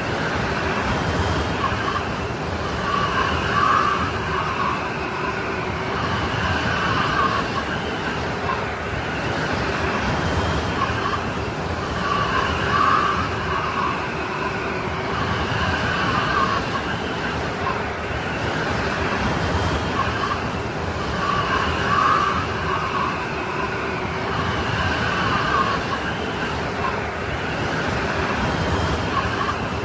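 Strong snowstorm wind blowing steadily, with whistling howls at several pitches that swell and fade in a repeating pattern about every nine seconds.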